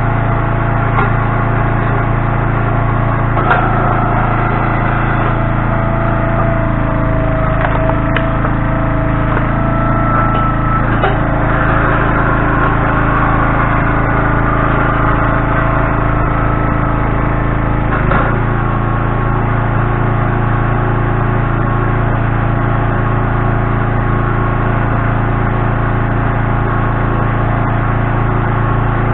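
Engine running steadily at a constant speed, its pitch shifting slightly a few times as the load changes.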